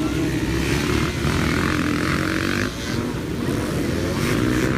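A pack of dirt bike engines running together in a loud, dense drone, with a brief dip in level a little past halfway.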